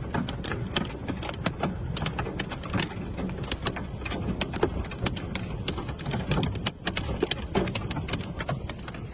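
Hailstones hitting hard surfaces in a dense, irregular clatter of sharp hits, over a steady rush of heavy rain.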